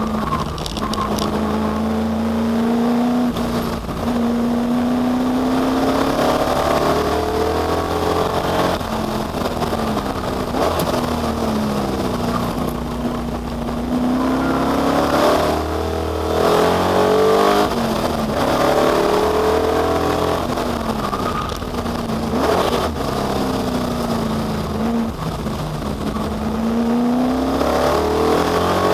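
Ford Capri V8 racing car at full throttle, its engine note climbing through each gear and dropping back at every shift or lift for a corner, again and again.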